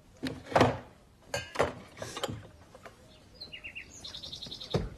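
Small birds chirping: a run of three quick chirps past the middle, then a fast trill of high notes near the end. Several short, louder non-speech sounds come in the first half.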